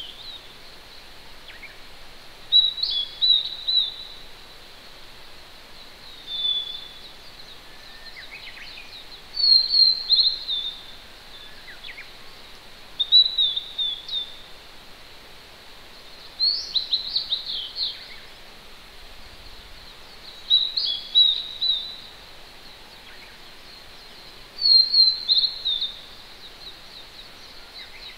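A wild songbird singing short, high, loud phrases of quick falling notes, one phrase every three to four seconds, with a few fainter calls of other birds between them. Under it runs the steady hiss of a distant mountain stream.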